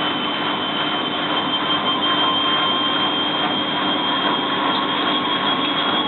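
Bosch WFF2000 washing machine's motor whining steadily as the drum runs up toward spin speed, its high tone creeping slowly upward.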